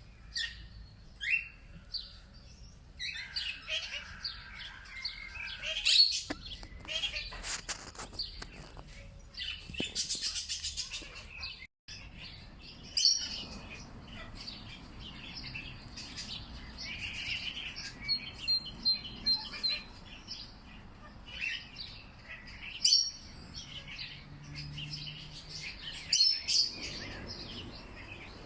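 Several wild birds chirping and calling, many short overlapping chirps with a few louder calls. The sound cuts out for a moment about twelve seconds in.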